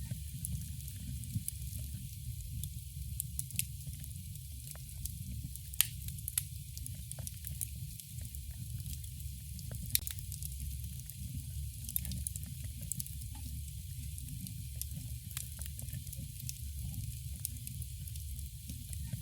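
Campfire burning: a steady low rumble and hiss with sharp wood pops and crackles scattered through, the loudest about six and ten seconds in.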